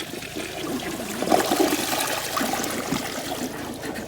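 A 2017 WaterRidge dual-flush toilet flushing a paper towel: water rushing and swirling down the bowl, loudest a second or two in and easing off near the end, with the paper towel going down.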